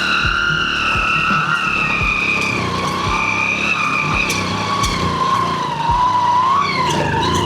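Hero Honda Splendor's 97.2cc single-cylinder engine running under way, with a whining tone. The whine steps up in pitch at the start, falls slowly, and wavers near the end.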